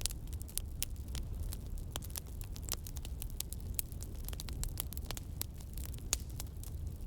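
Campfire burning, with frequent irregular crackles and sharp pops over a steady low rumble.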